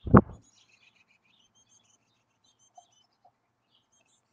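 A short, loud thump right at the start, then faint, high, rapid bird chirps and twitters.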